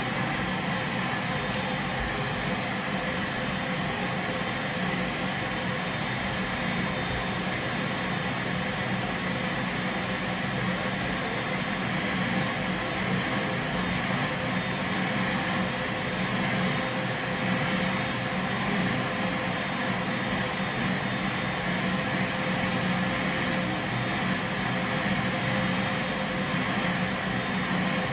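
Vacuum cleaner running steadily: a continuous low hum under an even rush of air, with no change in pitch or level.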